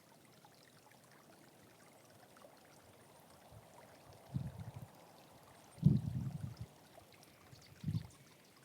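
A small stream flowing steadily and faintly. Three short low bumps or rumbles break in, the loudest about six seconds in.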